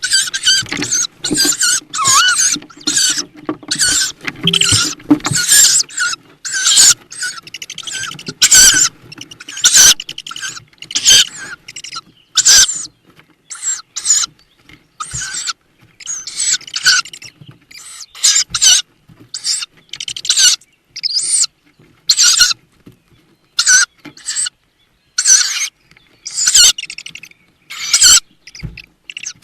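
Tawny owl chicks giving repeated short, wheezy hissing begging calls in the nest box, one or two a second at irregular spacing.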